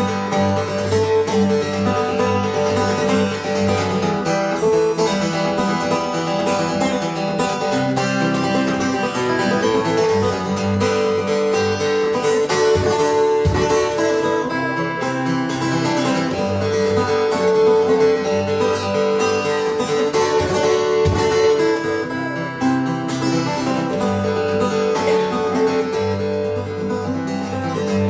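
Acoustic guitar playing an instrumental passage of plucked notes.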